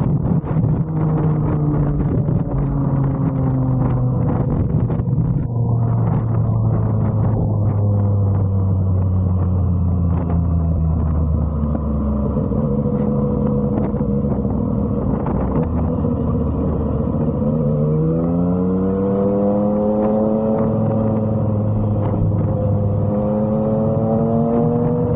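Yamaha MT-09's three-cylinder engine through an SC Project exhaust while riding, its note easing down through the first half, then climbing sharply as the bike accelerates about two-thirds in and holding steady.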